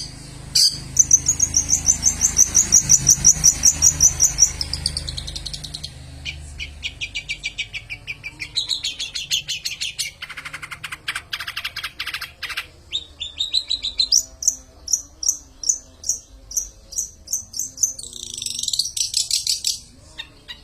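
Long-tailed shrike (cendet) singing a fast, varied song. It opens with a rapid run of high chirps, shifts to changing phrases with a dry rattle about ten seconds in, then repeated rising notes and a falling sweep near the end.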